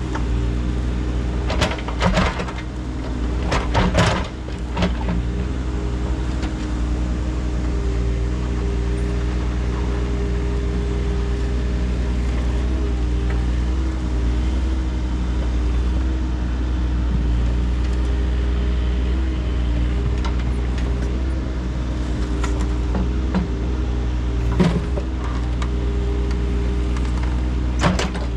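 Engine of heavy digging equipment running steadily, with a few sharp knocks and clanks about two and four seconds in and again near the end.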